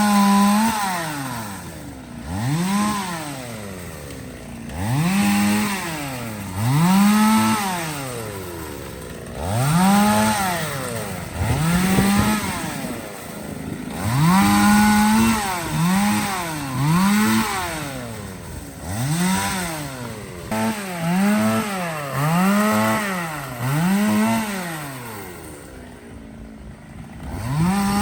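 Two-stroke chainsaw revved over and over: the engine climbs to full speed, holds briefly, then drops back toward idle, about once every two seconds.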